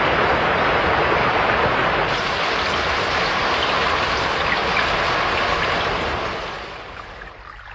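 Rushing river water, a loud, steady torrent that fades away near the end.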